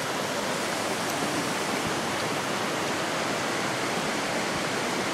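Steady rush of falling water from a creek waterfall, an even hiss with no change in loudness.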